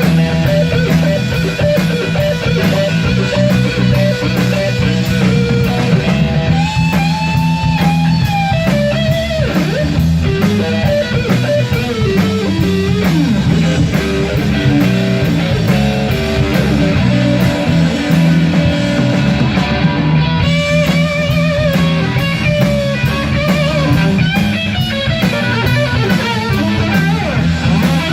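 A 1960 Gibson Les Paul Standard electric guitar playing lead lines with bent notes over a rock backing with drums.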